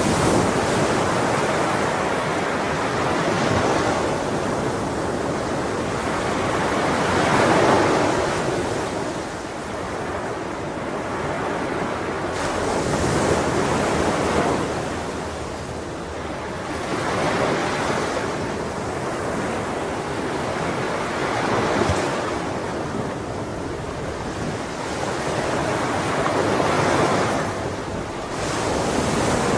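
Ocean waves breaking and washing on a shore, the surf swelling and falling back every few seconds, with wind.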